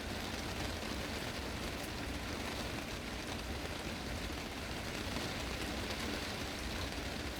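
Heavy rain drumming steadily on a greenhouse's glass roof, a dense even hiss with fine drop ticks throughout.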